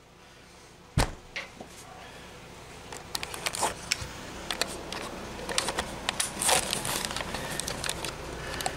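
Wood knocking and rattling on a wooden computer desk: one sharp knock about a second in, then a run of lighter knocks and clatter, over a low steady hum.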